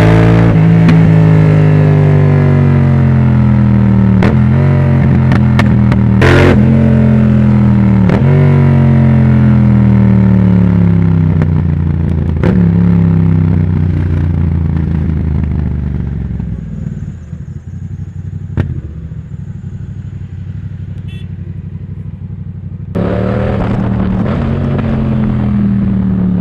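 Yamaha Tracer 700's parallel-twin engine slowing on engine braking, its pitch falling in steps as it is shifted down several times. About two thirds of the way through it settles to a quieter low idle for several seconds, then picks up loudly again near the end.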